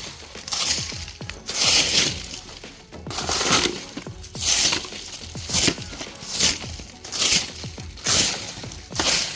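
Dry leaf litter being crunched and rustled as it is pushed aside by hand, in irregular bursts about once a second.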